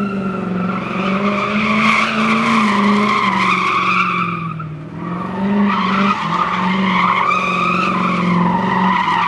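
A car's engine held at high revs while its rear tires spin and squeal as it slides. The squeal dips briefly about five seconds in, then picks up again.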